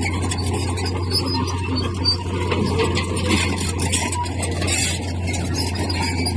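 Bulldozer running steadily at work: a constant low engine drone with short, high metallic squeaks scattered through it.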